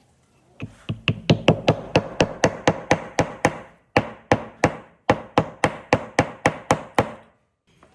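Rapid, regular hammer blows on wood, about four a second, in three runs broken by two short pauses.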